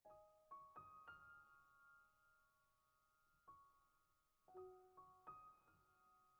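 Faint, soft piano music: a few notes struck and left to ring, in a quick group at the start, a single note about three and a half seconds in, and another short group a second later.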